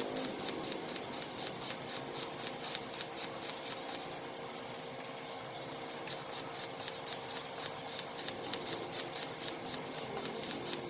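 Rhythmic scraping strokes, about three or four a second, that pause for about two seconds some four seconds in, over a faint steady hum.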